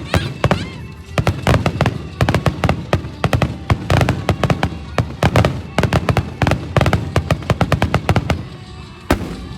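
Fireworks exploding in a rapid barrage, many sharp bangs a second with deep booms under them, thinning out near the end to one last bang.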